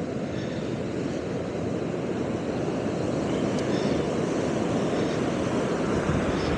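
Ocean surf washing up the beach, mixed with strong wind buffeting the microphone: a steady rushing noise that slowly grows louder.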